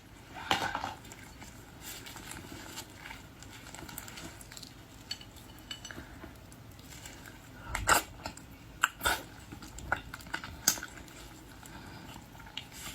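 Eating boiled seafood at a table: scattered sharp clicks and crackles of shells and tableware, loudest in a cluster about eight to eleven seconds in.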